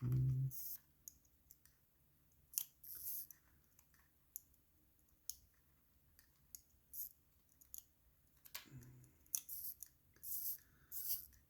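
Irregular small, sharp metallic clicks and brief scrapes of watchmaker's tools on the tiny parts of a replica Rolex watch, as a part that keeps sticking is worked into place.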